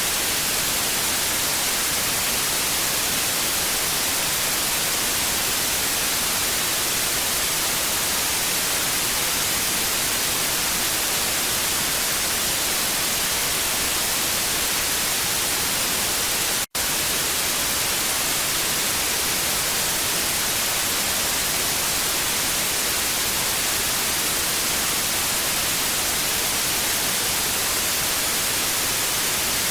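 TV static: a steady hiss, brightest in the high end, that cuts out for an instant a little past halfway and comes straight back.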